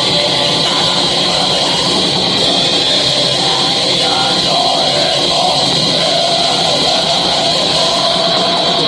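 Heavy metal band rehearsing: a dense, unbroken wall of distorted guitar at steady loudness, with a wavering melody line over it in the second half.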